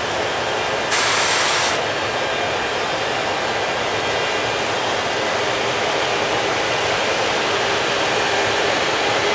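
Container freight train rolling along the track, its wagons' wheels giving a steady rail noise. A short burst of hiss comes about a second in.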